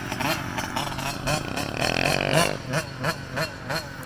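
Small off-road engine of a kid's quad or dirt bike revving, its pitch rising and falling in short repeated sweeps.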